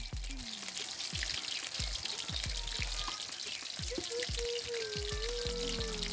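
Potato pieces frying in hot oil in a wok, a steady crackling sizzle that thickens about a second in, under background music with low plucked notes and a wavering melody entering about four seconds in.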